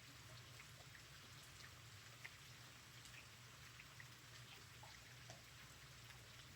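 Faint, steady light rain with scattered small drips and ticks of drops landing, in still air with no wind.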